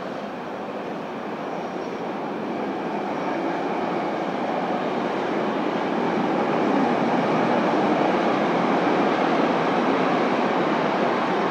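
Intermodal freight train of container, swap-body and tank-container wagons rolling past, a steady rumble of wheels on rails that grows louder over the first seven seconds or so and then holds.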